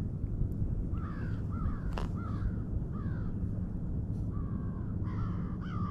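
A bird calling over and over: about a dozen short calls, each rising then falling in pitch, starting about a second in, over a steady low rumble.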